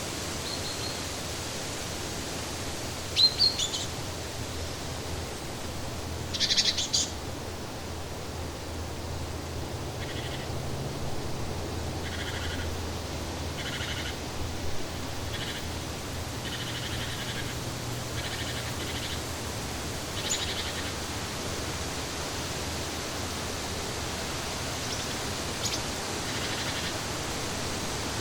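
Outdoor nature ambience: a steady hiss with birds chirping now and then, the loudest chirps about 3 and 6.5 seconds in, and a run of short repeated calls through the middle.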